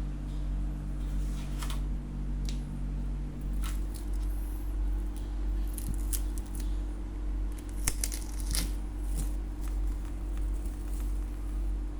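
Packaging being handled, with scattered crinkling and tearing sounds, thickest about halfway through, over a steady low hum.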